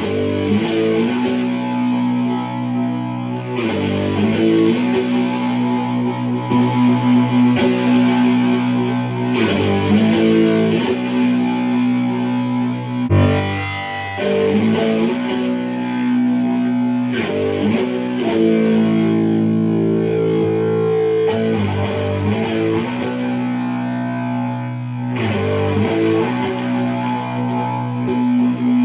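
Electric guitar played through heavy HM-2-style distortion, a Japanese Boss HM-2 and an HM-5 clone being compared at matched settings. Thick distorted chords are struck and left to ring, changing every few seconds, with a short break about halfway through.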